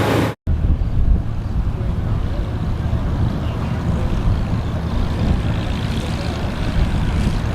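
A brief dropout about half a second in, then a steady low engine rumble from running farm machinery.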